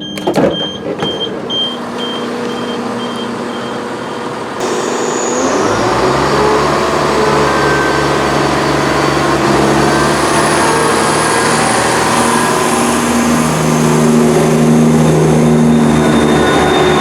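A repeated high beep fades out over the first few seconds. Then a Class 170 Turbostar diesel multiple unit's engine runs up as the train pulls away: its note rises at about five seconds and steps up again near the end.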